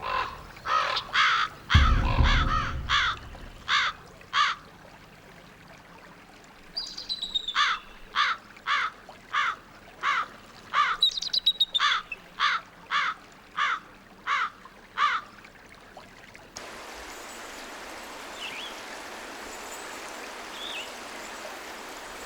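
Crows cawing over and over in runs of harsh calls, about two a second, with a few high thin whistled calls mixed in and a couple of low thuds at the start. About two-thirds of the way through, the calls stop and the steady rush of a river takes over.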